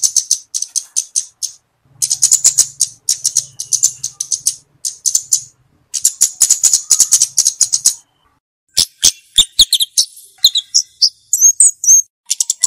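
Flowerpecker (cabe-cabean) calling: rapid, very high-pitched ticking chips in bursts of a second or two with short gaps between. Near the end come a few sharp clicks and short rising whistled notes.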